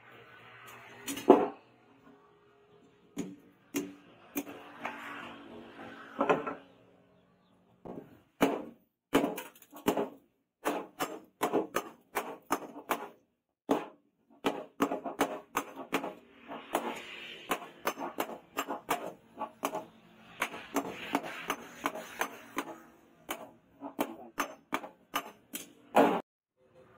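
Hammer blows on steel in quick runs of sharp strikes, broken by spells of a rasping, hissing noise lasting a second or two.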